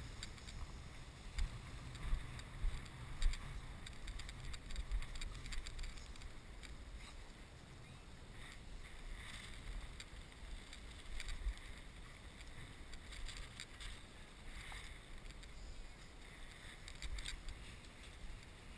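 Gusty wind buffeting the camera microphone as a low rumble, with scattered brief rustles and crackles over it.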